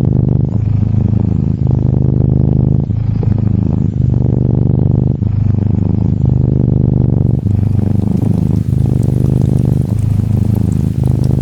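A Norwegian Forest Cat kitten purring close up, a steady low rumble that swells and dips with each breath about once a second. About two-thirds of the way in, the hiss and light patter of gentle rain fades in under the purring.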